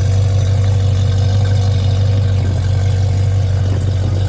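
A car's engine running steadily at low speed, loud and deep-toned, with no revving.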